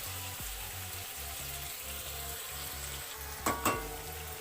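Sliced onions, capsicum and slit green chillies sizzling as they fry in oil in a pan, with two sharp knocks against the pan about three and a half seconds in.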